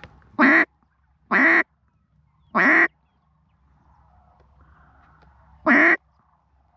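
Duck call blown in a mallard hen's quack: four loud, separate quacks, the first three about a second apart and the fourth after a pause of about three seconds.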